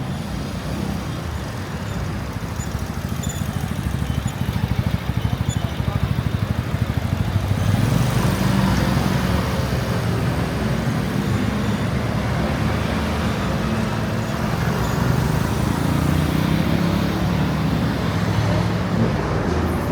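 City street traffic: motor vehicle engines running close by, getting louder about four seconds in, with people talking among the traffic.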